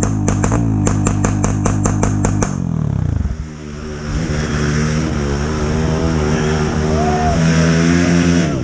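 Off-road dirt bike engines. For the first two and a half seconds one engine runs with a fast, even clicking. It then drops away, and another bike's engine keeps running, its pitch rising and falling slightly.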